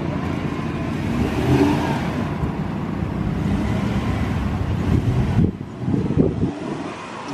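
A truck's engine running and revving as it drives through soft beach sand; the noise drops off about five and a half seconds in.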